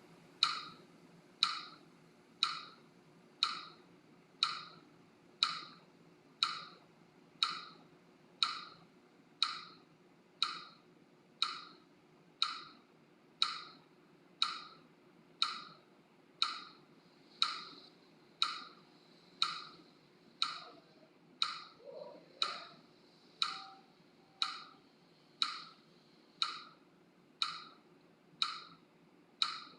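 Metronome ticking steadily at about one tick a second, each tick a short, sharp wood-block-like click, pacing the breathing practice.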